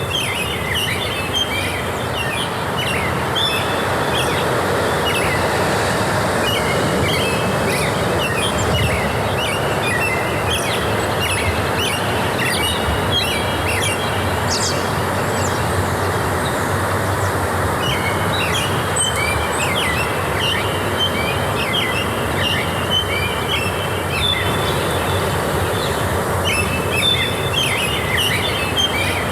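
Forest ambience: several birds calling and twittering in repeated short phrases over a steady rushing background noise, the bird calls pausing briefly about halfway through.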